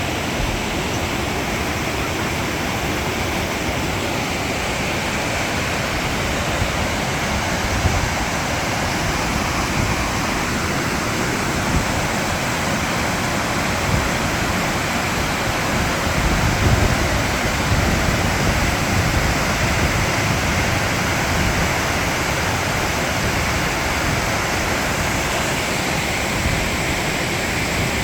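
Tortum Waterfall's water pouring down in a steady, loud rush of white noise, with a few brief low bumps along the way.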